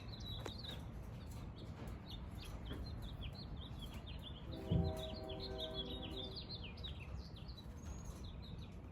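Small birds chirping rapidly and continuously, with a rooster crowing once for about two seconds near the middle, just after a dull thump, over a low outdoor rumble.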